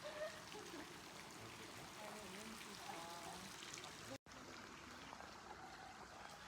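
Faint running water, a steady trickling flow, with faint distant voices; the sound cuts out for a split second about four seconds in.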